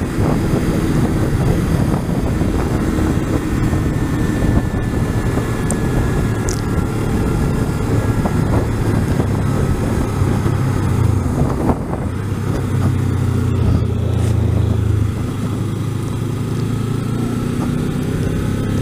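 Kawasaki Ninja 300's parallel-twin engine running as the motorcycle rides along at a fairly steady speed, with heavy wind noise on the microphone.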